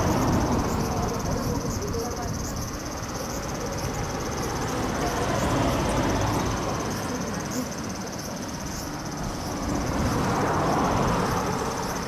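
Insects trilling steadily at a high pitch over a low rushing rumble that swells and fades about three times.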